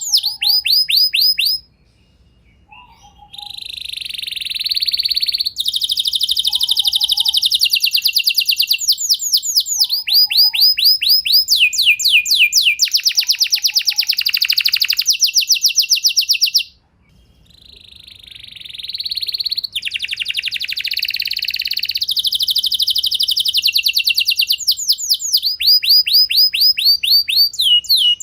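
Domestic canary singing a long song of fast trills and rolls: rapid runs of quickly repeated sweeping notes. The song breaks off briefly twice, once about two seconds in and once just past halfway.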